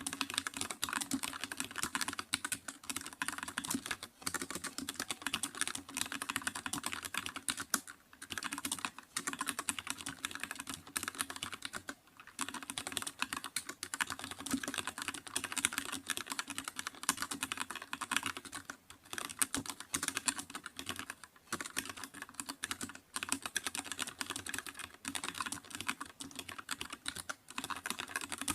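Continuous typing on a computer keyboard: a fast, steady stream of key clicks, broken by short pauses every few seconds.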